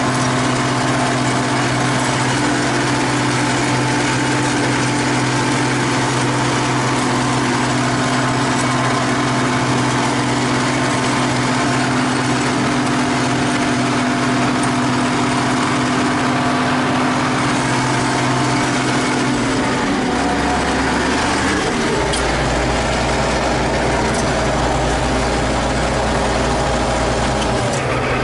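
T-150K wheeled tractor's diesel engine running steadily, heard from inside the cab. About two-thirds of the way through, its note breaks and settles to a lower, deeper hum as the engine slows.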